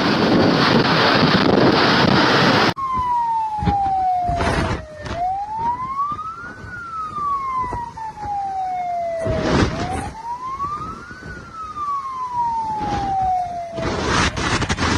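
Loud rushing noise that cuts off abruptly about three seconds in. Then a siren wails slowly up and down twice, broken by several short bursts of noise.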